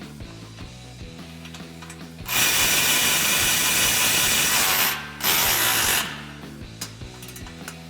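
A power tool tightening exhaust flange bolts runs in two bursts: a long one of about two and a half seconds, then after a brief pause a short one of under a second. Light ratchet clicks come before and after.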